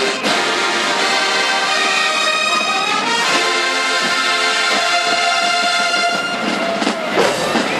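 Marching band brass section playing loud sustained chords, with a rising slide about three seconds in.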